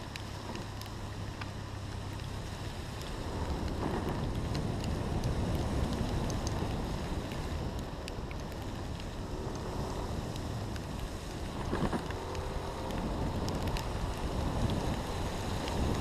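Wind buffeting an action camera's microphone, a steady low rumble with scattered light ticks.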